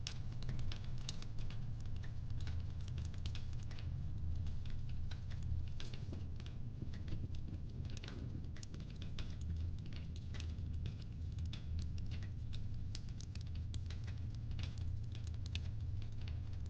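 Wood fire in a fireplace crackling: many small irregular pops and snaps over a steady low rumble.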